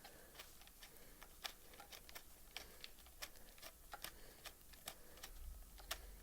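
Faint, irregular light clicks and taps of a spanner and small metal parts being worked on a trimmer, several a second.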